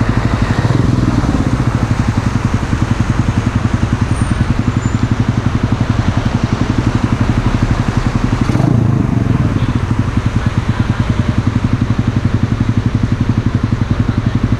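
Mash Café Racer 125's single-cylinder engine idling through a Megaton aftermarket exhaust, with an even, rapid pulsing. About nine seconds in there is a brief blip of the throttle before it settles back to idle.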